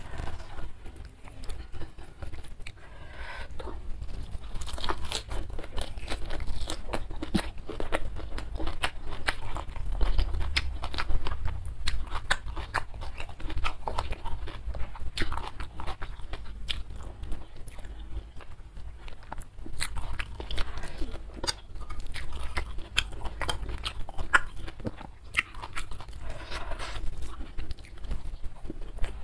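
Close-miked chewing and biting of a mouthful of raw kenikir leaves with rice and sambal, with a dense run of crunching, wet clicking mouth noises throughout.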